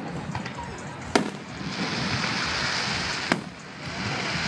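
Aerial fireworks shells bursting with two sharp bangs, about a second in and again past three seconds, with a steady hiss between and after them.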